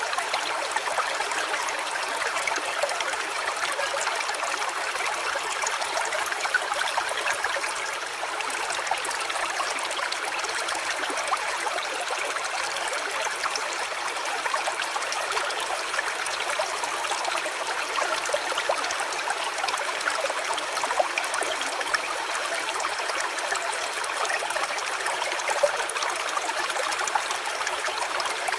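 Shallow stream trickling steadily over stones.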